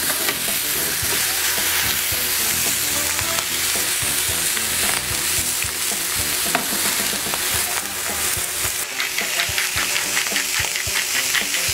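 Nopal paddles and panela cheese sizzling steadily in an oiled frying pan, with a spatula knocking and scraping in the pan now and then. Near the end a hand-turned spice mill grinds over the pan, a fast run of small ticks, about four or five a second.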